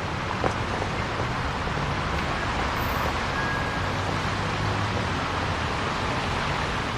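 Steady rushing noise with a low rumble underneath, cutting off abruptly near the end.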